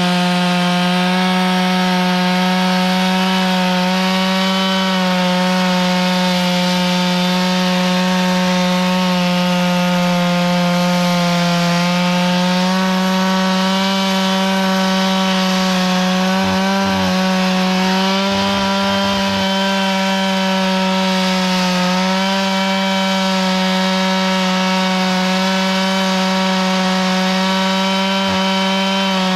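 Chainsaw running steadily at high revs while cutting wood, with a constant buzzing pitch that sags and wavers slightly now and then as the cut loads it.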